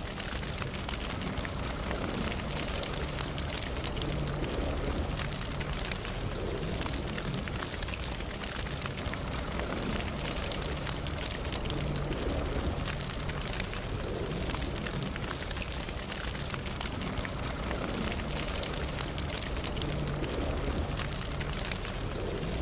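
Campfire burning: a steady hiss and low rumble with many small crackles and pops throughout.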